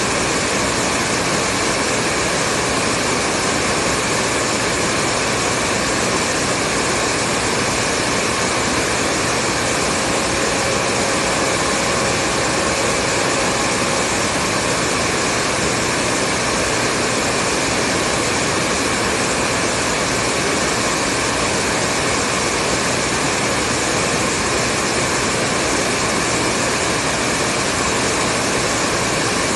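Hair dryer running steadily: a continuous, even rush of blown air and motor noise with no change in level. A faint steady tone rises slightly above it for a few seconds near the middle.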